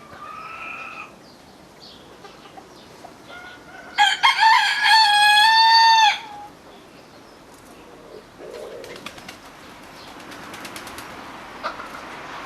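Domestic rooster crowing once, close and loud: a two-second cock-a-doodle-doo about four seconds in, ending on a long held note. A fainter, shorter call sounds in the first second.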